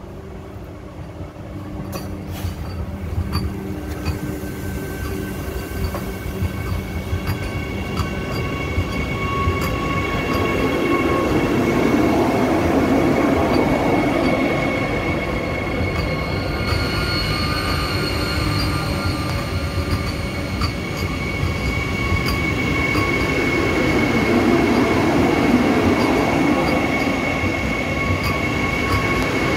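Vande Bharat Express electric trainset rolling slowly past at shunting speed: wheels rumbling over the rails with a steady high-pitched tone and occasional clicks. It grows louder over the first ten seconds or so as the train comes alongside, then holds steady as the coaches go by.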